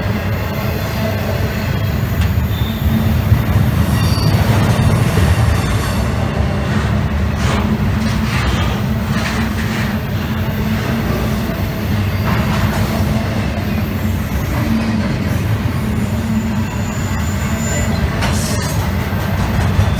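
A train rolling by on the rails: a steady heavy low rumble of wheels on track, with scattered clicks and a couple of brief high-pitched wheel squeals.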